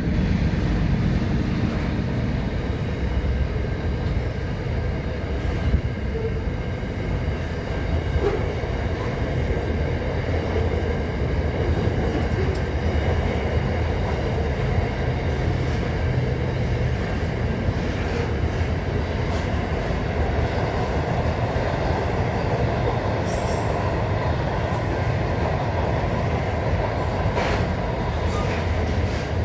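A train running on the rails: a steady rumble of wheels and cars, with a few scattered clicks.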